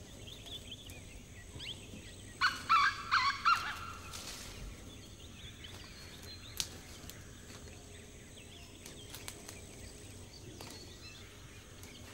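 Outdoor bird sounds: a loud bird call of four quick harsh notes about two and a half seconds in, over faint chirping. A single sharp knock a little past the middle, as a blade strikes the tree's wood.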